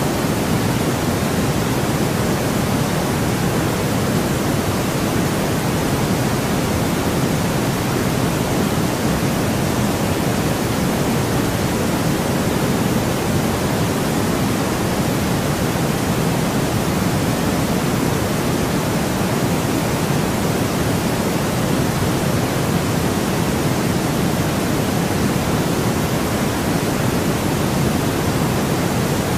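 Steady white noise: an even, unchanging rushing hiss, weighted a little toward the deeper end.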